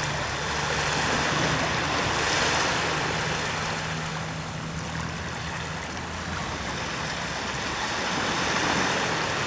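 Waves washing on a sandy beach, the rush of water swelling and easing twice, over a low steady hum that fades out late on.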